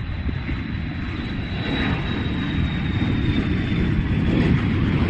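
Aircraft engine running loud and steady, with a thin high whine that slowly drops in pitch as the sound grows louder toward the end.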